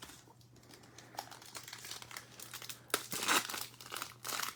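Trading card pack wrapper crinkling as packs are handled and opened, with the loudest crinkles about three seconds in and again near the end.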